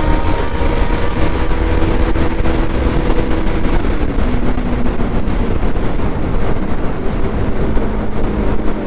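Bajaj Pulsar NS200 single-cylinder engine running at speed under throttle, with heavy wind rush over the microphone. The engine note drops about four seconds in.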